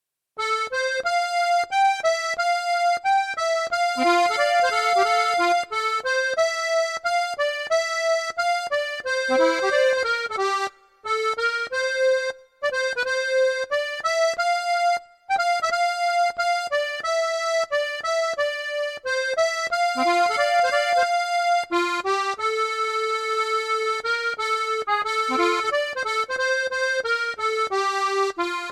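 Accordion playing a slow song melody over chords with short bass notes, pausing briefly three times between phrases.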